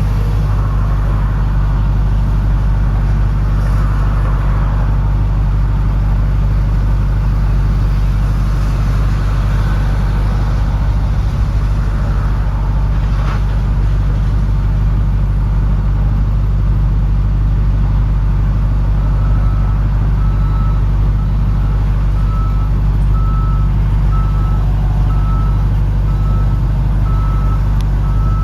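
2001 Audi S8's V8 running steadily with a loud, deep exhaust drone; the exhaust has separated between the catalytic converters and the mufflers, so the mufflers are bypassed. About two-thirds of the way in, a regular high beeping starts, a little faster than one beep a second.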